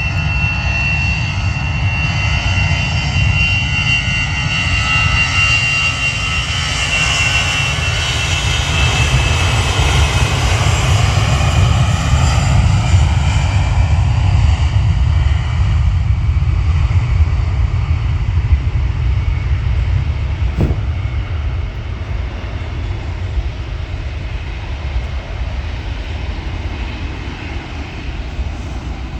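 Twin jet engines of an easyJet Airbus A320 at takeoff power: a high whine that slowly falls in pitch over a deep rumble. It is loudest about halfway through, then fades as the aircraft climbs away.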